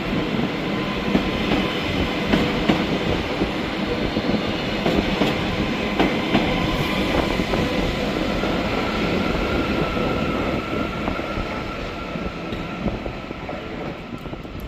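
Class 397 Nova 2 five-car electric multiple unit moving along the track. There is a steady rumble and rush of wheels on rail, with scattered clicks over the rail joints and a faint steady whine from about eight seconds in. It fades away over the last few seconds as the train moves off.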